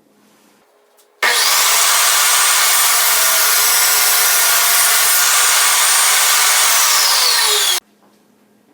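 Table saw cutting plywood: a loud, steady run of blade noise and motor whine that starts suddenly about a second in and cuts off sharply near the end.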